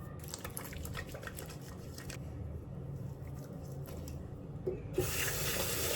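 Faint squishing and light clicks as oil cleanser is worked over the face, then a loud hiss lasting about a second near the end.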